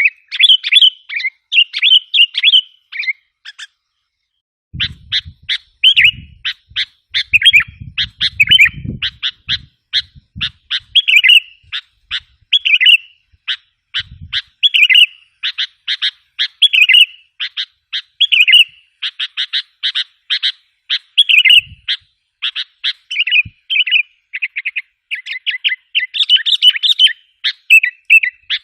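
Sooty-headed bulbul (kutilang) calling without letup in quick chirps and short warbled phrases, a lure-call recording meant to draw wild bulbuls. The calls stop for about two seconds early on, and a low rumble runs under them for a few seconds after they resume.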